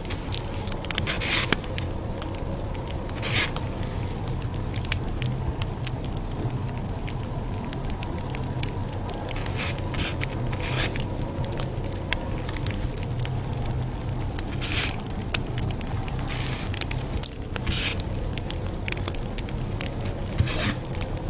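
Campfire burning with a steady low rumble and irregular sharp crackles and pops of the wood.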